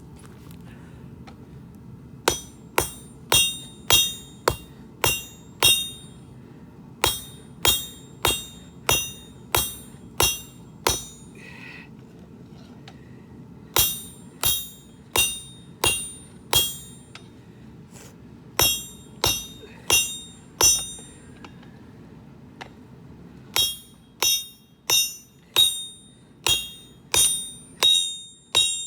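Forging hammer striking a steel hoe blade on an anvil, in five runs of about four to ten blows at roughly two a second, each blow ringing, with short pauses between runs. The blows are straightening the blade.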